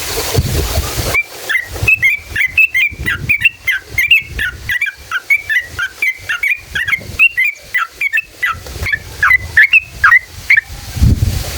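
Yellow-vented bulbul (trucukan) singing a long run of quick, bubbly, chattering whistled notes, about three or four a second. This is the long rolling 'ropel' song used as a lure call. A low rumbling noise is heard at the start and again near the end.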